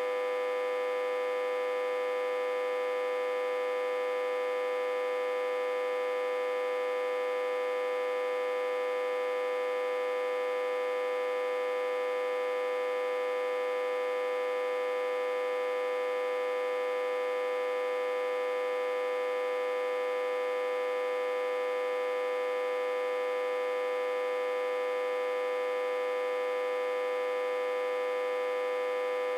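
Autotransformer humming, reverse-connected to a step-down transformer and fed about 60–80 V. A steady, unchanging hum of several tones together, one strong middle tone with many higher overtones above it and no low rumble.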